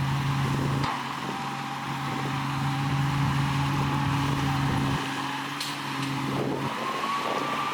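Heavy diesel earthmoving machinery running steadily, with a steady whine above the engine note; about six and a half seconds in the engine note changes and the whine rises slightly.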